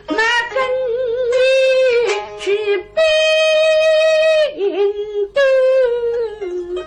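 A high female voice singing a slow, ornamented Suzhou tanci (pingtan) passage, with long held notes and wavering vibrato.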